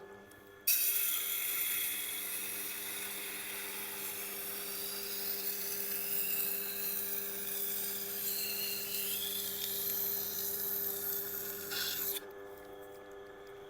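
Steel chef's knife edge ground against a Tormek's 320-grit wheel: a steady high grinding hiss that starts about a second in and stops about a second and a half before the end. The low hum of the Tormek's motor runs underneath.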